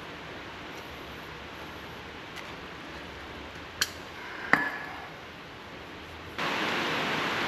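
Quiet background noise with two sharp metallic clicks, the second with a short ring, a little past the middle. A louder steady hiss comes in suddenly near the end.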